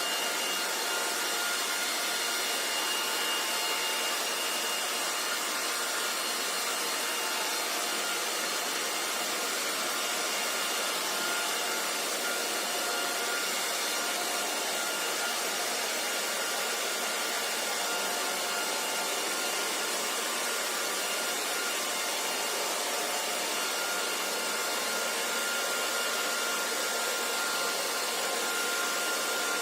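Hair dryer blowing, a steady airy rush with a faint whine from its motor. It does not change in level.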